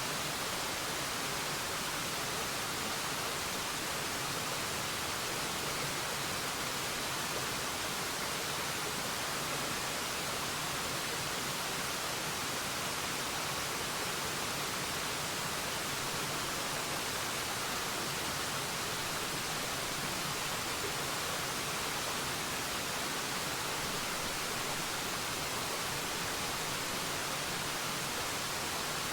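Forest waterfall: water rushing and splashing in a steady, even hiss, brightest in the upper range, with no change or separate events.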